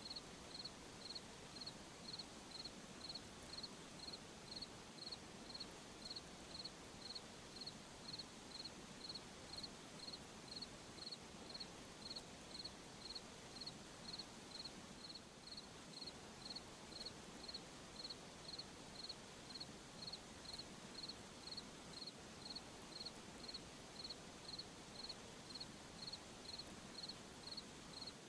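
Cricket chirping at night in a steady rhythm of about two chirps a second, high-pitched, over a faint background hiss.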